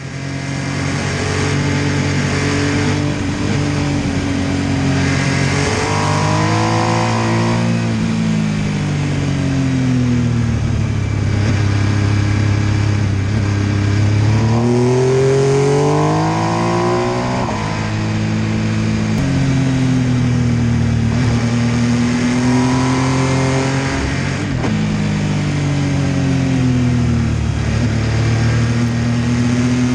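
MV Agusta F3 800's three-cylinder engine under way. It revs up hard several times and drops back in between, accelerating out of bends and rolling off into the next.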